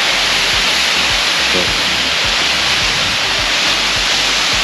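DeSoto Falls, a 92-foot waterfall, rushing steadily: a loud, even roar of falling water, with a few soft low thumps underneath.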